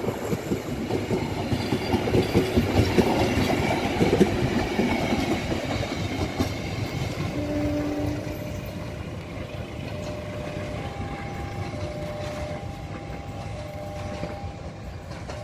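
Stainless-steel passenger train coaches rolling past on the rails, the wheels clattering rhythmically over the rail joints. The sound fades over the second half as the train recedes into the distance, with faint short tones sounding at intervals.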